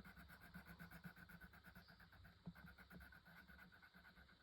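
Near silence, with faint, quick, even scratching strokes of colouring in on paper.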